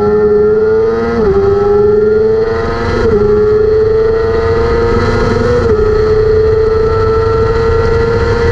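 600 cc race motorcycle engine at high revs under full throttle. Its pitch climbs steadily, with three brief dips as it shifts up through the gears, over heavy wind rush.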